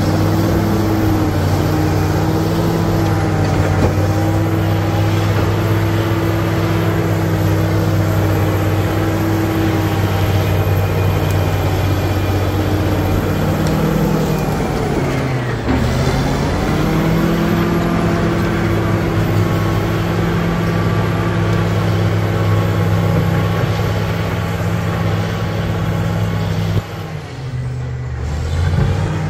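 Caterpillar D7G bulldozer's diesel engine running steadily under load. About halfway through, the engine pitch sags briefly and recovers, and near the end the engine eases off and gets quieter.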